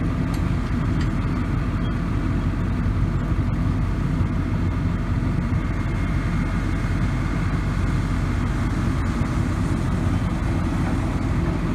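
A vehicle engine idling, a steady low rumble heard from inside the car's cabin.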